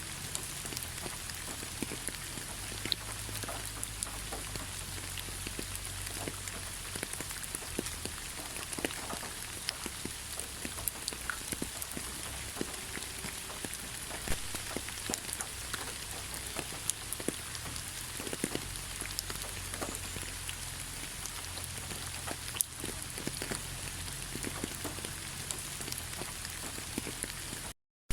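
Steady rain falling in a pine forest, an even hiss with many separate drops striking close by. Near the end the sound cuts out completely for a fraction of a second.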